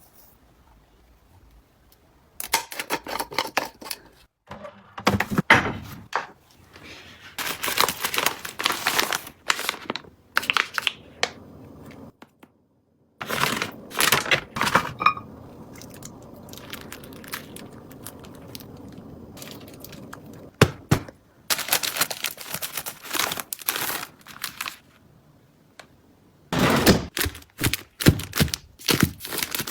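Packaging being handled: crinkling and tearing with occasional thuds, coming in bursts separated by short pauses.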